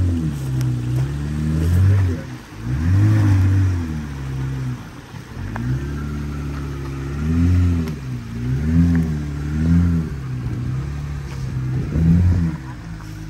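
Jeep Gladiator's 3.6-litre V6 gas engine revving up and down in repeated short throttle bursts while rock crawling.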